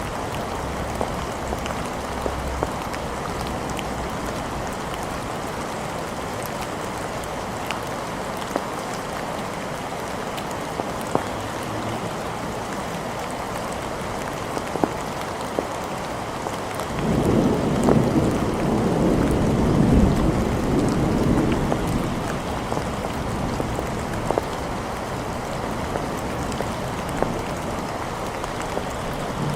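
Steady rain falling, with scattered sharp drops. About seventeen seconds in, a roll of thunder rumbles for several seconds, then fades back under the rain.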